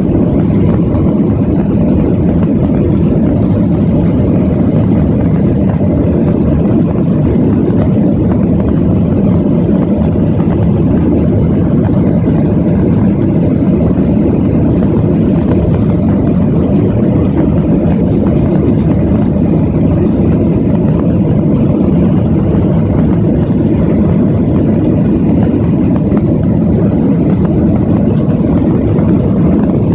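Steady jet engine and airflow noise heard inside an airliner cabin, a loud low rumble that holds even throughout.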